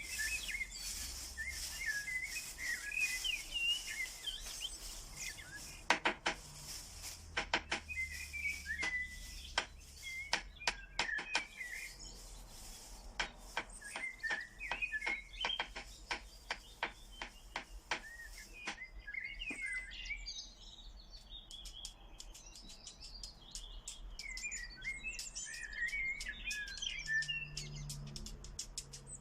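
Birds chirping and warbling in many short, quick phrases, with a dense run of sharp clicks through the middle and again near the end.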